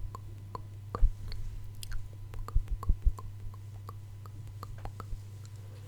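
ASMR mouth sounds close to the microphone: a string of short, wet clicks and smacks at an irregular pace, louder about a second in and again around the middle, over a steady low hum.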